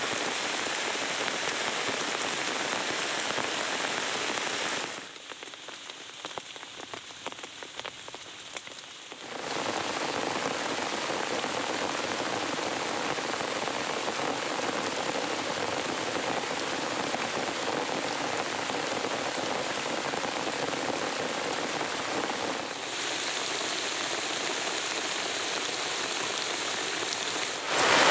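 Heavy rain falling steadily. About five seconds in it drops for a few seconds to a lighter patter of separate drops, then returns to a full downpour.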